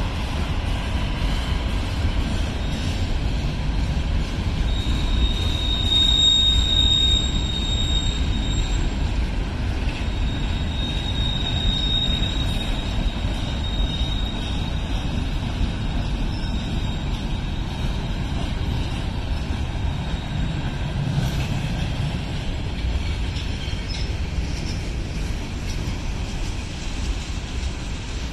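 Freight train rolling past: a steady rumble of steel wheels on rail as covered hoppers and tank cars go by. A high, steady wheel squeal comes in about five seconds in, stops near nine seconds, and returns from about ten to sixteen seconds in.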